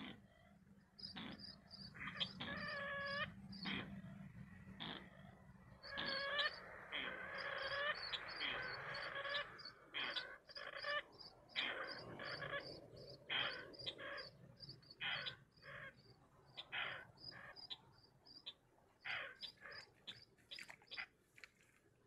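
Birds calling in quick, repeated notes, some of them harsh and stacked in pitch, over a running series of short high ticking notes.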